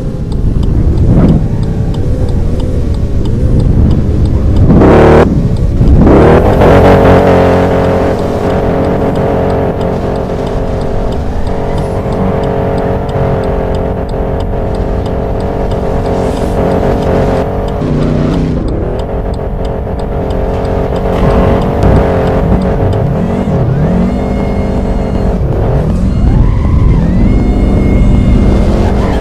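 Loud car engines running, one holding a steady note for several seconds, then revving with the pitch rising and falling several times near the end.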